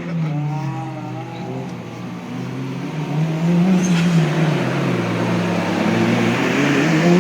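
Turbocharged 2008 Honda Civic Si engine being driven hard, its note rising and falling repeatedly as it accelerates and lifts off.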